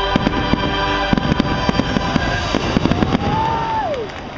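Aerial fireworks bursting in rapid bangs and crackles over show music; the music's held chord stops about a second in. Near the end a single high tone rises, holds and falls away as the bangs thin out.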